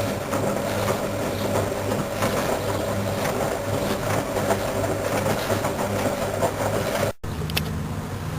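Washing machine motor running with a steady mechanical hum and light rattling. It drops out abruptly for an instant about seven seconds in, then resumes with a lower hum.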